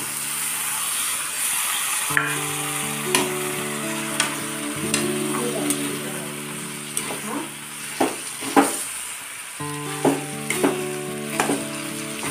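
Raw chicken pieces sizzling in hot oil and masala in a kadai, stirred with a metal spatula that clinks and scrapes against the pan at irregular intervals. Background music plays underneath.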